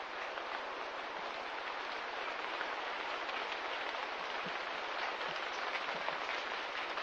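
Steady fine patter of light rain: an even hiss flecked with many tiny drop sounds.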